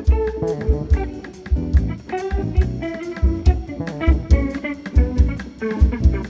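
Instrumental band music from a small jazz-style group: guitar playing a melodic line over double bass and a drum kit, with a steady beat of bass-drum hits and cymbal strokes.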